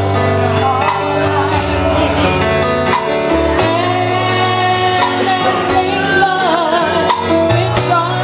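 Gospel duet singing with instrumental accompaniment, the voices wavering with vibrato over held bass notes.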